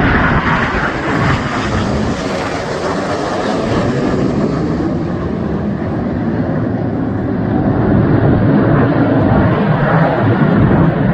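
Jet noise from BAE Hawk T1 jet trainers flying past in formation display, a broad rushing roar whose high hiss fades after about four seconds before a deeper rumble builds again near the end.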